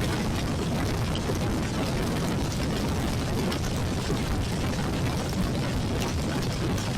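Steady wind buffeting over an action camera's microphone on a moving Royal Enfield Classic 350 motorcycle, with the bike's single-cylinder engine running underneath.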